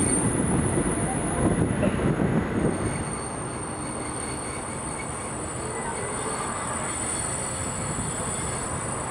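Running noise of a passenger train heard from the open window of one of its coaches: wheels rumbling on the rails with wind. About three seconds in it drops to a steadier, quieter run.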